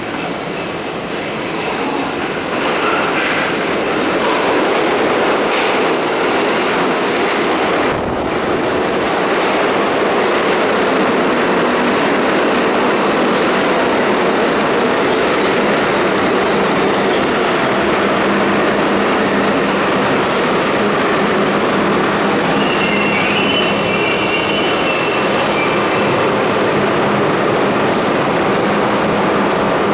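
A Budd-built R32 subway train runs loudly into the station with a steady rumble of wheels on rail that builds over the first few seconds. High wheel squeal slowly falls in pitch as the train travels.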